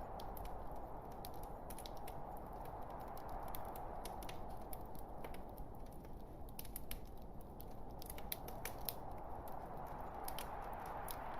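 Wood fire burning in a fireplace: irregular sharp crackles and snaps from the logs over a steady low hiss of the flames.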